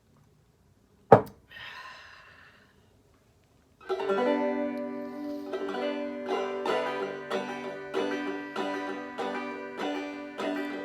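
A single sharp knock about a second in, then from about four seconds a plucked string instrument playing a song's instrumental intro, with chords struck about twice a second.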